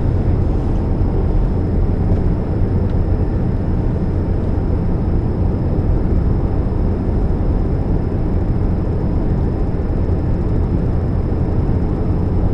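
Steady low drone from a 2013 Chevrolet Spark that is running, with a faint high whine above it. The owner puts the humming down to a leaking catalytic converter.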